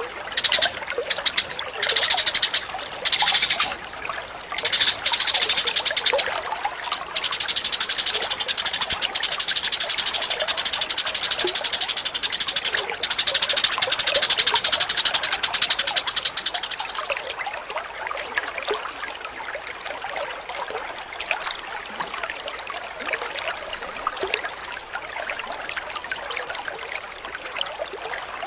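Rapid, high, buzzing bird chatter, first in short bursts and then unbroken, stopping a little past halfway. Trickling water runs underneath, with faint chirps once the chatter stops.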